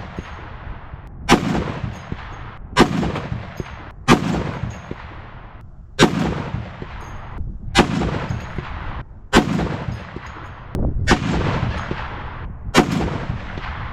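A Barrett M82A1 .50 BMG semi-automatic rifle firing eight heavy shots, one every one and a half to two seconds. Each crack is followed by a long, fading echo that rumbles across the range.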